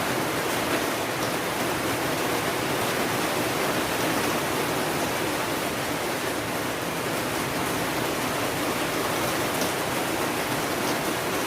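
Steady, even rainfall: a dense, unbroken hiss of rain with no separate drops standing out.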